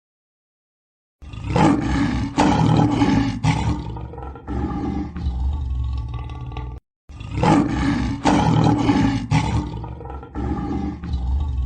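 A large wild animal roaring in a series of deep, rough calls. The same recorded roaring sequence plays twice, starting about a second in, with a brief silence between the two.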